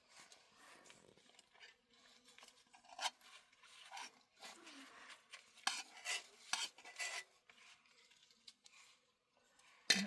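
Irregular, fairly quiet scraping and light clinking of objects being handled, in short scrapes and taps, a few of them louder around the middle.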